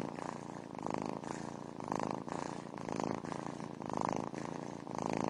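Domestic cat purring steadily, swelling and easing about once a second with each breath in and out.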